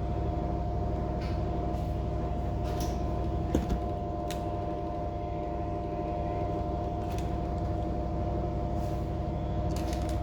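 Steady machine drone: a low rumble with a few steady whining tones over it, and scattered light clicks, with one sharper knock about three and a half seconds in.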